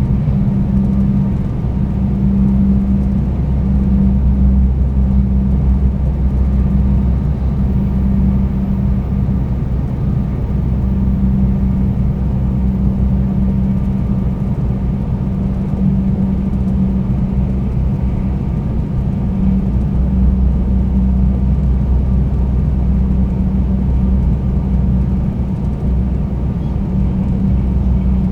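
Cabin running noise inside a 300 series Shinkansen Green car: a steady low rumble with a constant low hum.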